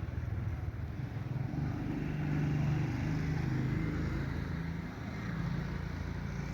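Steady low engine rumble with a hum that shifts slightly in pitch, over a constant background noise.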